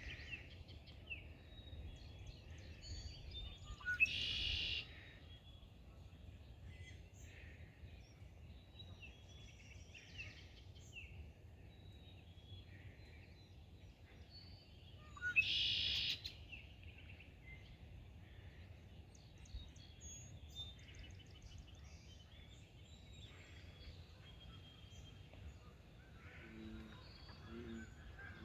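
Small birds chirping and singing around a pond, with two louder, harsher calls about four and fifteen seconds in, over a faint low rumble. Near the end, Canada geese start honking in short repeated notes.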